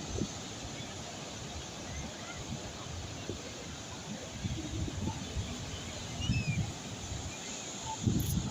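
Seaside ambience: a steady wash of calm sea waves, with wind rumbling on the microphone in gusts that grow stronger toward the end. A few faint, short high chirps are scattered through it.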